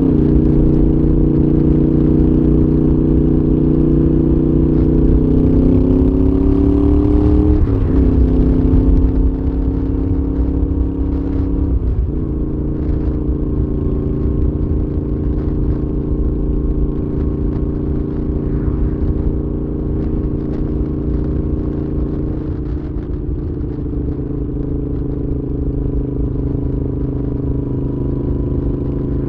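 Moto Guzzi V7's transverse V-twin running through a Mistral exhaust while riding. The engine note climbs and then drops sharply about eight seconds in, changes briefly again near twelve seconds, and then holds a steady cruising pitch. Low wind rumble on the microphone runs underneath.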